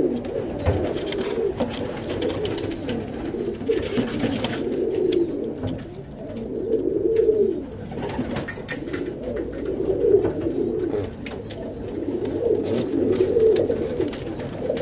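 Tippler pigeons cooing in a loft: low, warbling coos repeating every second or two, overlapping.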